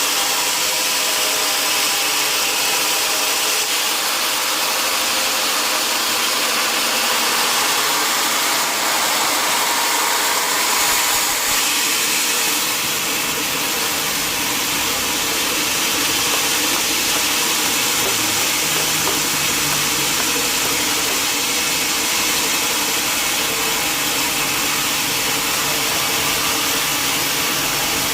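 Sawmill machinery running steadily, a dense, even mechanical noise with most of its energy in the upper range. About twelve seconds in, a deeper layer joins it.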